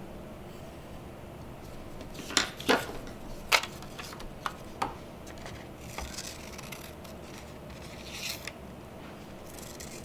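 Scissors cutting paper: a handful of sharp snips between about two and five seconds in, with softer paper rustling later.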